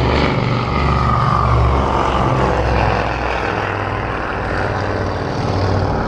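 Propeller aircraft engine noise, with a whine that falls in pitch over the first few seconds as the aircraft passes, above a steady low drone.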